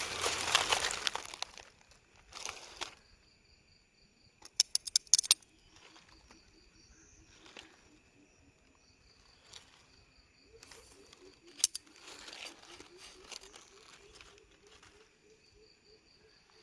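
Rustling and crinkling from something being handled, with a quick run of sharp clicks about five seconds in. Faint, evenly repeated insect chirps run underneath.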